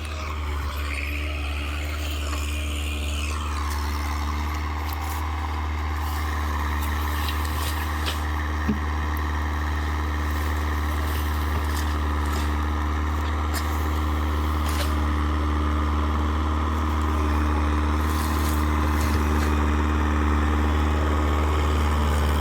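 Tractor engine running steadily with a low, even hum, growing slightly louder toward the end. A single sharp click is heard about nine seconds in.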